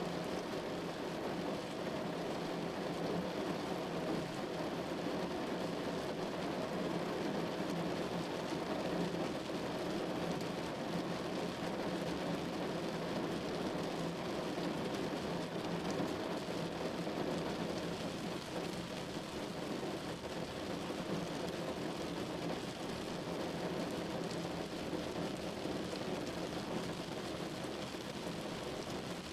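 Steady rain falling on a window, an even, unbroken rush with no single drops or other sounds standing out.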